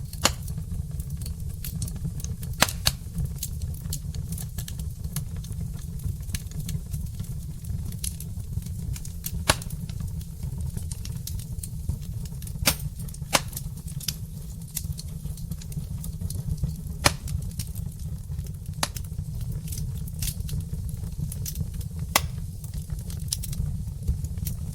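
Wood fire of burning logs in a brick fireplace, crackling with irregular sharp pops over a steady low rumble.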